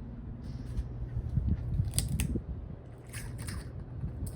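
42-inch Kmart Alaska ceiling fan running, its airflow giving an uneven low rumble on the microphone, with a few sharp clicks about half a second, two seconds and three seconds in.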